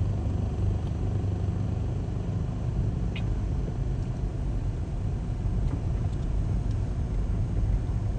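Car driving along: a steady low engine and road rumble, with a faint tick about three seconds in.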